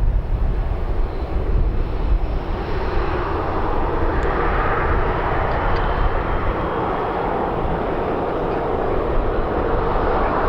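Aircraft engine noise builds from about two seconds in and holds steady as a broad roar. At the start, wind rumbles on the microphone.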